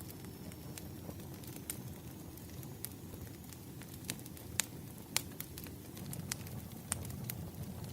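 Wood fire burning, with a steady low rumble and sharp, irregular crackles and pops from the burning logs.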